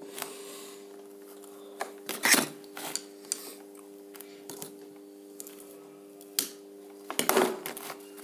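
Irregular metallic clicks and clatters of hand tools and parts being handled during assembly. The loudest knock comes a couple of seconds in and a quick flurry comes near the end, over a steady background hum.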